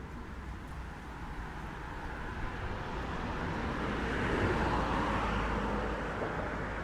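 A vehicle passing along the street: its tyre and engine noise swells to a peak about two-thirds of the way through, then begins to ease.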